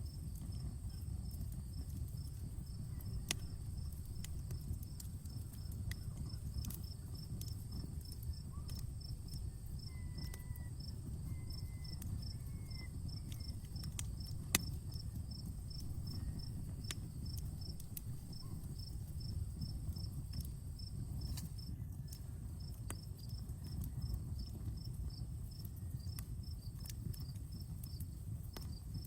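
Outdoor wood campfire crackling, with scattered pops over the low steady rumble of the flames and one sharper pop about halfway through. A cricket chirps steadily at about three chirps a second against a constant high tone.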